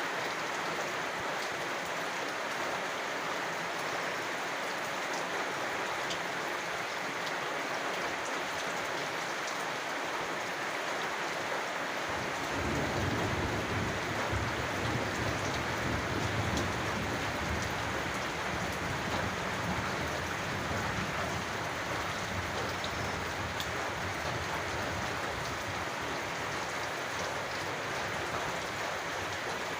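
Steady rain falling, a dense even patter. About twelve seconds in, a low rumble comes in and slowly fades.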